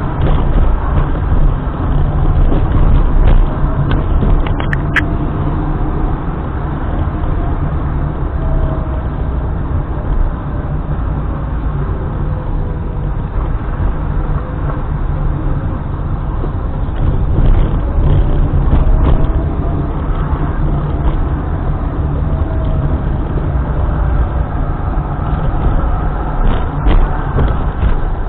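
Steady low road rumble of a car being driven, heard from inside, with a faint whine that rises and falls in pitch. A brief sharp click about five seconds in.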